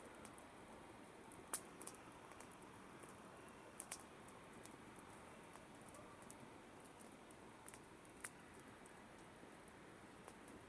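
Campfire crackling: a faint, steady hiss with irregular small snaps and a few louder pops from the burning wood.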